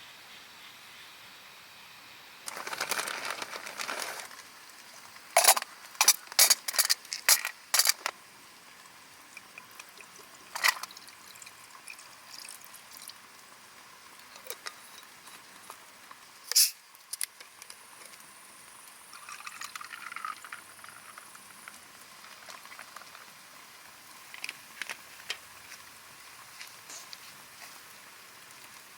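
Liquid poured briefly near the start, then a run of sharp clicks and knocks from items being handled, with a few single clicks and a softer pour or hiss later on.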